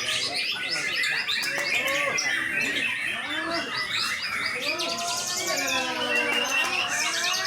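Many songbirds chirping and singing at once in a dense, overlapping chorus of fast trills and chirps, with people's voices talking underneath.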